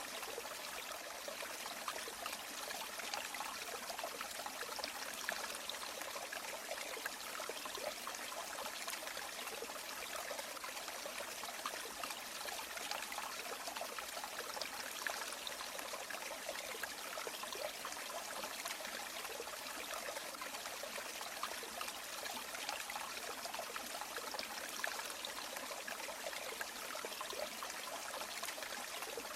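River water running and trickling in a steady, even rush.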